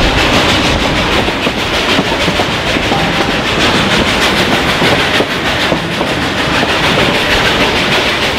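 Narrow-gauge passenger train cars running along the track, a steady noise of wheels on rails heard from an open-sided car.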